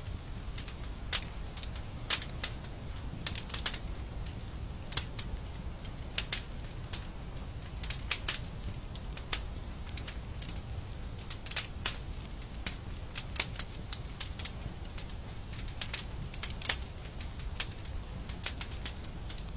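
Wood fire crackling, with irregular sharp pops and snaps, several a second at times, over a low steady rumble of the burning.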